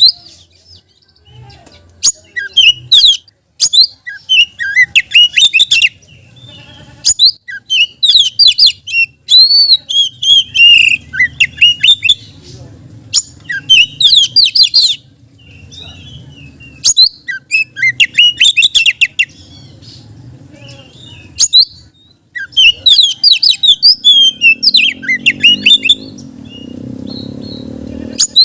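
Oriental magpie-robin (kacer) in full song: loud bouts of fast, high, varied chirps and whistles, each a second or two long with short pauses between them, including mimicked phrases of other birds.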